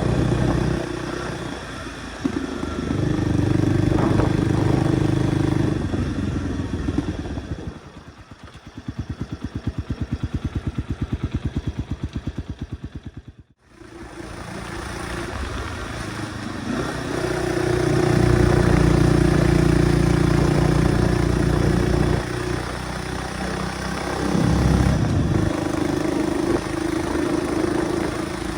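Kawasaki 250TR's single-cylinder four-stroke engine running and revving. About halfway through it drops to a slow, even idle whose beat slows, and the sound breaks off abruptly. It then runs and revs again, the bike running after its carburettor overhaul.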